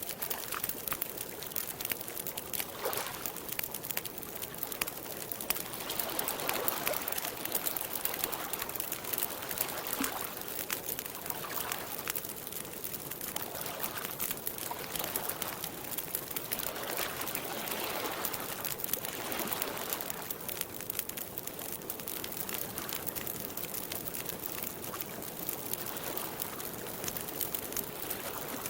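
Campfire crackling steadily with dense fine ticks, over lake water lapping in slow, gentle swells.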